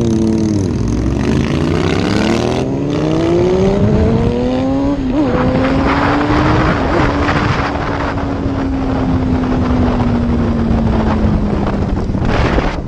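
Sport bike engine pulling hard under acceleration: the revs dip at first, then climb steadily for about four seconds, kink briefly about five seconds in, and then hold near-steady at speed, easing off slowly. Wind rushes over the helmet microphone, louder around six seconds in and again near the end.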